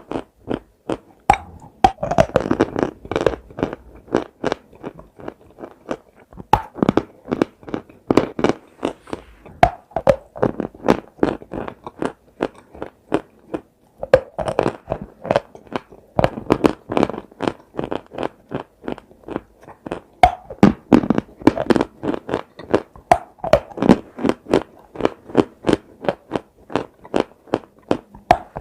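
Close-miked biting and chewing of dry chalk: a quick, steady run of loud, sharp crunches, several a second, with a few short lulls between mouthfuls.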